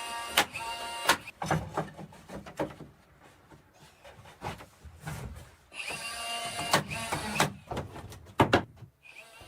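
A small power tool's motor whirring in short bursts, once at the start and again from about six to seven and a half seconds in, with sharp knocks and clatter of wood in between.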